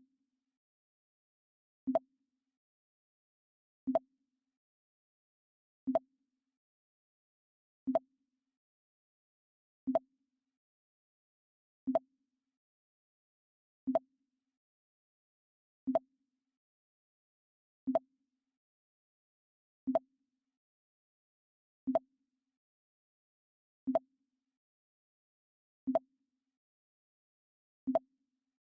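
The Mac OS X 'Pong' alert sound effect played over and over: a short pitched blip about every two seconds, with silence between.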